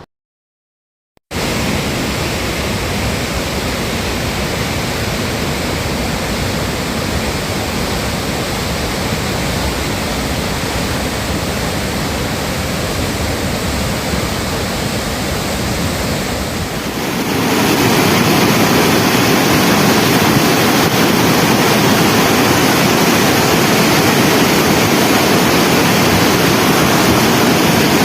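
Floodwater rushing in a steady, loud wash of noise. It cuts in abruptly about a second in and gets louder at about 17 seconds.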